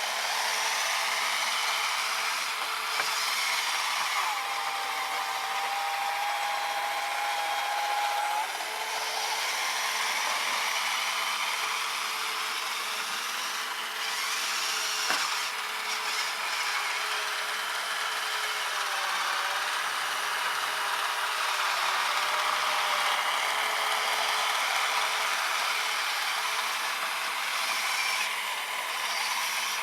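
Small brushed 550 electric motor of an RC snowblower whining steadily as it drives the auger, with a continuous hiss behind it. The whine's pitch drifts slowly up and down.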